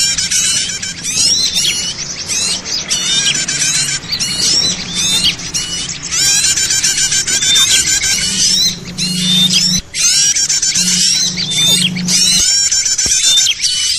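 A dense, noisy chorus of many small birds chirping and trilling at once, overlapping without pause: a lure recording (suara pikat) played to draw small birds in. A low steady hum runs beneath it, louder in the second half.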